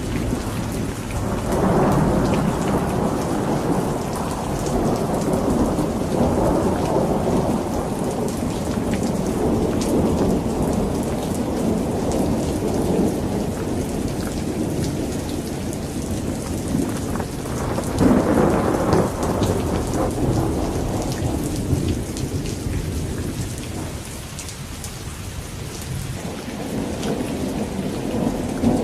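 Campfire crackling with many small sharp pops over a continuous low rumble. The rumble swells about two seconds in and again around eighteen seconds, and eases off later.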